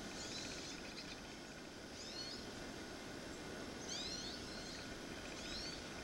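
Small birds calling: four short, quick chirping phrases of gliding high notes, about every one and a half to two seconds, over steady outdoor background noise.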